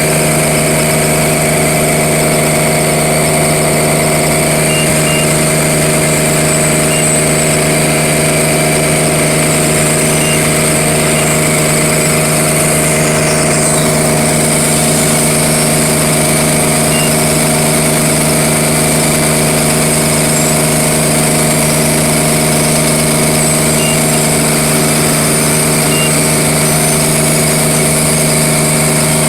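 Milling machinery running at a constant speed: a steady mechanical drone with several fixed tones and no change in pitch or level.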